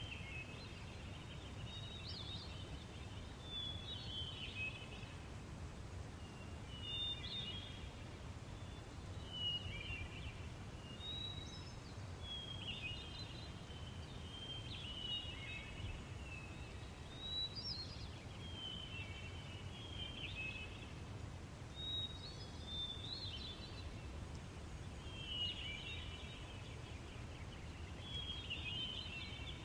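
Rural outdoor ambience: a songbird repeating short, quick phrases every two to three seconds over a steady low rumble of background noise.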